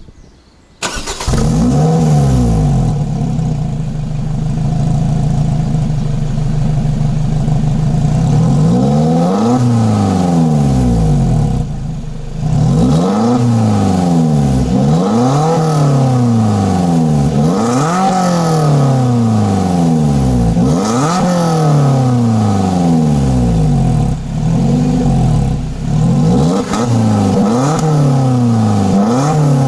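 Lotus Elise Cup250's supercharged 1.8-litre four-cylinder engine and exhaust revving hard. It cuts in abruptly about a second in, then its pitch sweeps up and falls back repeatedly, every two to three seconds.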